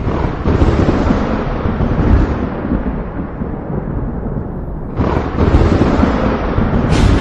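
Thunder: a deep rolling rumble that fades over about four seconds, then a new clap breaks about five seconds in and a sharper crack comes near the end.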